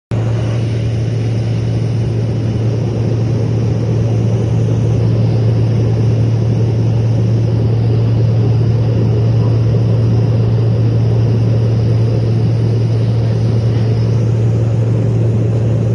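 Steady low drone of an aircraft in flight, engine and airflow noise with a strong low hum, unchanging throughout.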